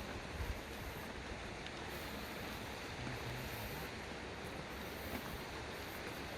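Steady outdoor rushing noise with a few low thumps about half a second in.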